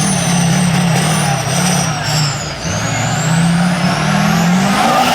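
Mega truck engine revving hard, its pitch wavering. About two and a half seconds in it drops low, then climbs steadily again with a high whine rising alongside.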